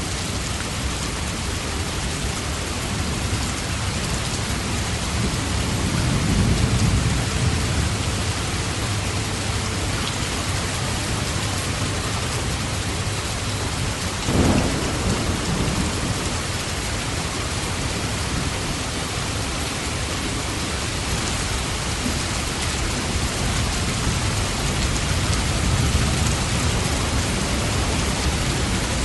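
Steady heavy rain with thunder: low rumbles swell up twice, once early on the rise and again near the end, and a short, sharp crack comes about halfway through.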